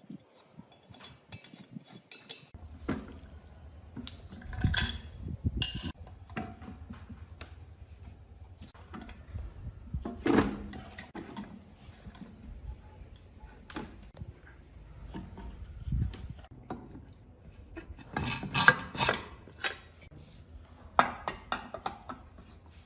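Metal parts and hand tools clinking and knocking during handwork: irregular light taps with a few louder clusters of clanks. A faint low hum runs under it from a few seconds in.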